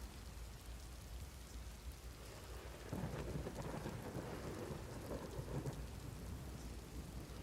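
Steady rain falling, with a rumble of thunder that breaks in abruptly about three seconds in and fades over the next few seconds.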